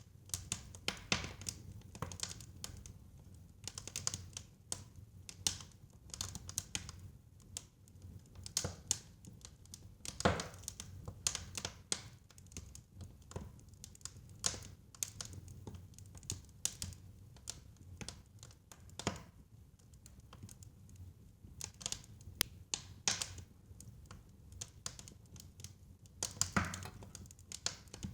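Fireplace fire crackling: irregular sharp pops and snaps, a few louder than the rest, over a low steady rumble.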